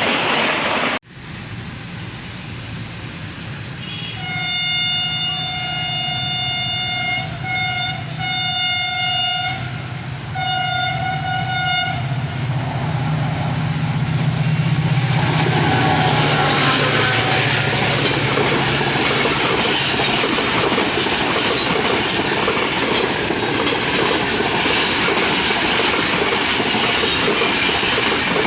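HGMU-30 diesel-electric locomotive hauling a passenger train, sounding its multi-tone horn in several blasts over a low engine drone as it approaches and passes. It is followed by a loud steady rush of coaches going by at speed, with wheels clacking over the rail joints.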